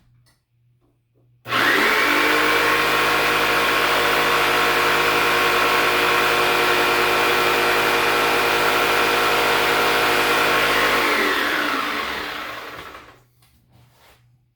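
Electric cutting tool starts suddenly and its motor runs at a steady pitch for about nine seconds, cutting a wooden part, then coasts down and stops over a couple of seconds.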